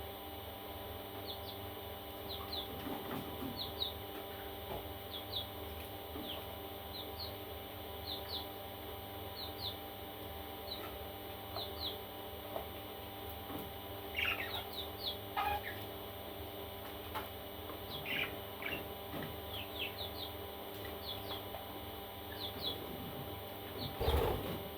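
Parrot chicks chirping: short high chirps, often in pairs, about one a second, with a few louder, longer calls around the middle, over a steady hum. A bump sounds near the end.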